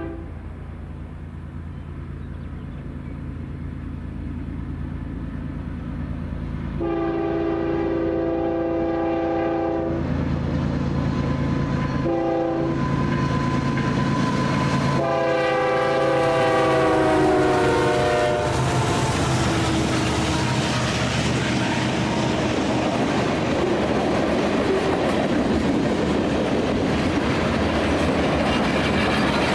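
Union Pacific diesel freight locomotive approaching with its engine rumbling and its multi-note air horn sounding a long blast, a short one, then a long one that falls in pitch as the locomotive goes by. The freight cars then roll past with steady wheel noise and clatter on the rails.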